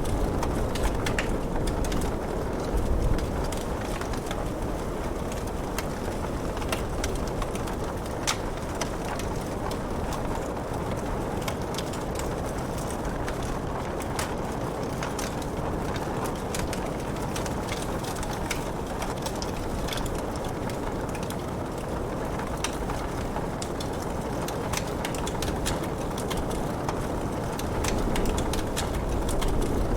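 Wood fire crackling in a fireplace, with many small sharp pops scattered over a steady hiss of rain.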